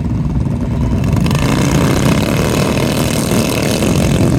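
Mini bike engines running, the sound swelling and getting brighter about a second in as a bike comes closer.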